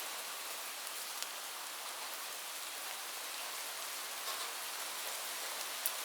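Steady rain falling on a surface, an even hiss with the odd louder drop ticking out of it, one about a second in and a sharper one near the end.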